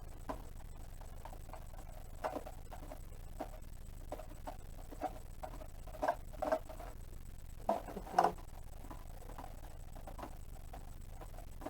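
Scattered small clicks and knocks of hands and tools handling the plastic casing of a portable fridge as it is taken apart, irregular, with a cluster of louder knocks around six to eight seconds in, over a low steady hum.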